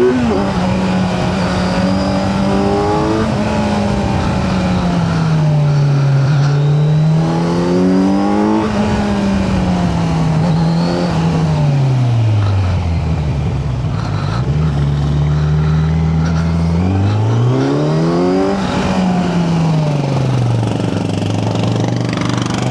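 Kawasaki Z900's inline-four engine revving up and falling back again and again, its pitch rising and dropping about five times as the bike accelerates and slows. It holds steadier at lower revs for a few seconds past the middle.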